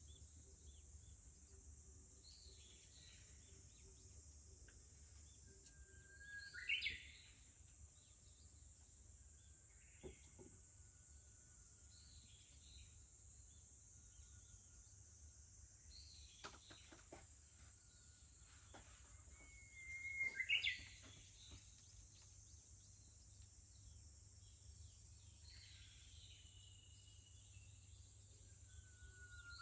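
Japanese bush warbler singing its "hoo-hokekyo" song three times, each phrase a held whistle that breaks into a quick rising flourish. Fainter bird chirps and a steady high insect drone sound between the phrases.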